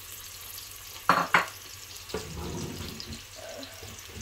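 Sliced onion, garlic and green chillies frying in oil in a metal pan, with a light sizzle. Two sharp knocks sound about a second in, followed a moment later by a brief low rustling noise.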